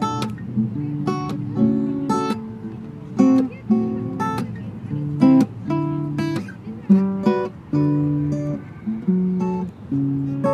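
Acoustic guitar strumming the opening chords of a folk song in a steady rhythm, each strum ringing out before the next.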